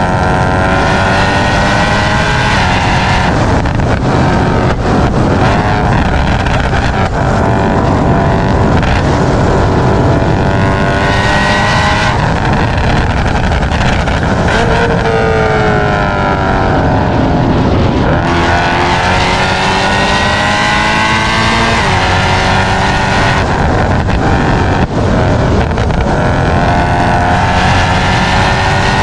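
Straight-piped BMW E92 M3's 4.0-litre V8 exhaust, loud throughout, pitch repeatedly climbing under acceleration and dropping again at shifts and lift-off.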